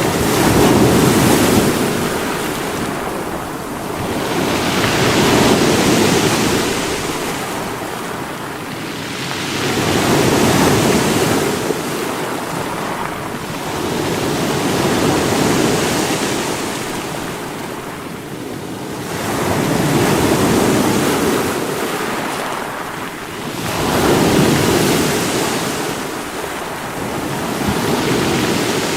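Sea waves breaking against rocks, the surf swelling and easing about every four to five seconds.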